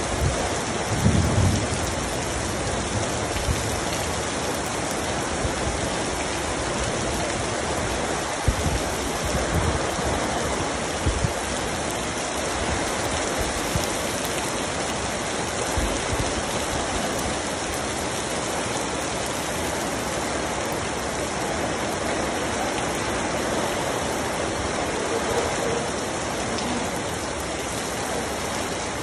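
Heavy rain pouring steadily, with a few brief low thumps.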